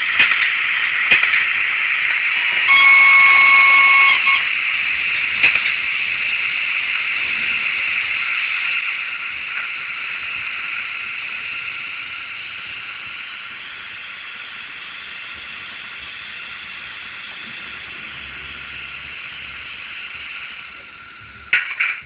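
LokSound 3.5 sound decoder in a Roco HO Ce 6/8 II 'Crocodile' model locomotive playing electric-locomotive running sounds through its small speaker: a steady hiss, with one horn blast about three seconds in that lasts over a second. The running sound grows fainter around the middle, and a couple of sharp clicks come near the end.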